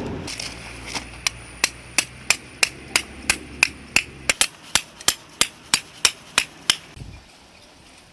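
Hammer driving a tent peg: an even series of about twenty sharp, ringing strikes, roughly three a second, stopping about seven seconds in.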